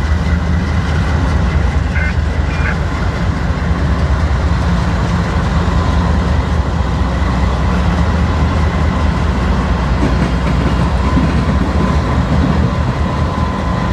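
Two GE wide-cab diesel-electric locomotives leading a loaded iron ore train, their engines giving a heavy, steady low rumble as they come in and pass, with a thin steady tone above it.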